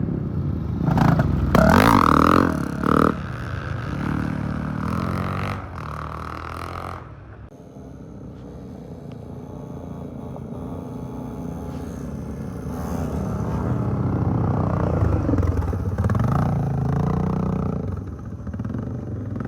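Off-road trail motorcycles passing by, engines revving up and down. The sound drops away about a third of the way in, then builds again as more bikes approach.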